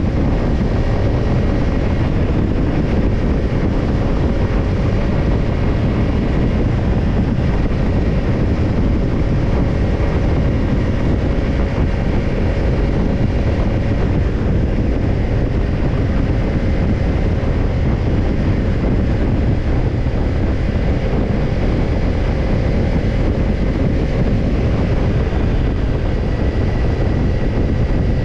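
Kawasaki Ninja 250's parallel-twin engine running through a BEET Nassert Evolution Type II slip-on muffler while the bike rides at a steady speed, the engine note holding an even pitch. Heavy wind rush on the microphone blends with the exhaust.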